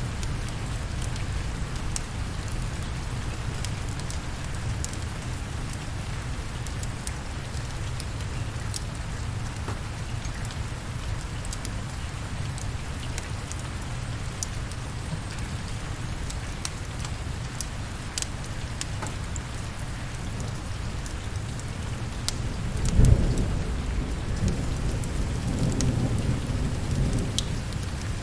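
Steady rain with a low rumble underneath and scattered sharp ticks. About 23 seconds in, a thunderclap breaks, followed by a few seconds of rolling thunder.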